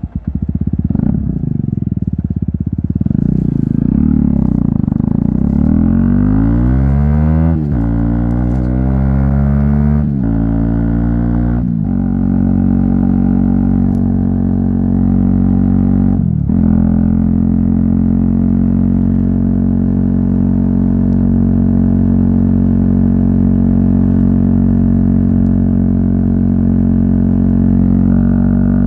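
Aprilia SX 125's single-cylinder four-stroke engine through an Arrow exhaust, accelerating through the gears. The pitch rises and drops at each upshift, about 7, 10 and 12 seconds in, then settles to a steady cruise.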